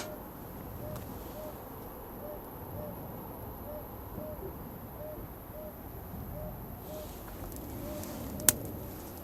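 A bird repeating a short hooting note evenly, about one and a half times a second, with one sharp crack near the end.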